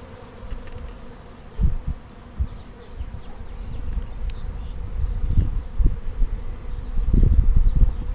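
Honeybee swarm buzzing steadily at a hive box, the bees fanning, which the beekeeper takes as a sign the queen is inside. Low rumbling under the buzz grows louder in the second half.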